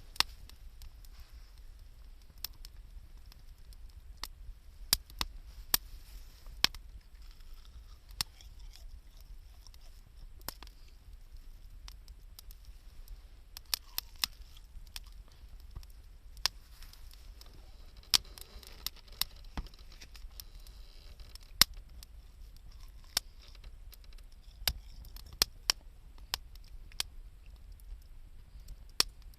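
Wood campfire crackling: irregular sharp pops and snaps from burning wood, a few of them much louder, over a faint low rumble.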